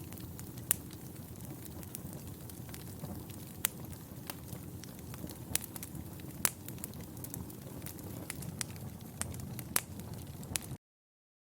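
Fire burning in a fireplace: a steady low rush of flames with sharp crackles and pops every second or two. It cuts off suddenly near the end.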